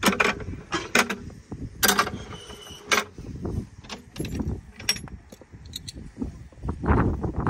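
Metallic clanks and creaks from narrow-gauge railway rolling stock during coupling-up at the end of the line: sharp knocks about once a second, with a brief high squeal about two seconds in, over a low rumble.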